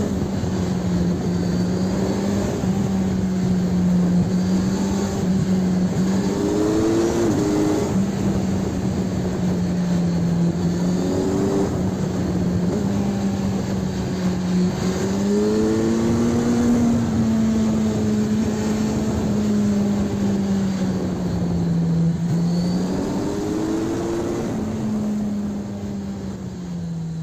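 Kawasaki Ninja 1000SX inline-four with an Arrow aftermarket exhaust, running on the road at steady mid revs, its note rising and dipping a little with the throttle and briefly breaking a few times. The sound fades away near the end.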